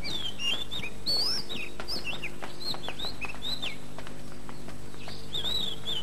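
A songbird singing a quick run of varied, sliding whistled chirps, pausing for about a second and a half and starting again near the end, over a faint steady hum.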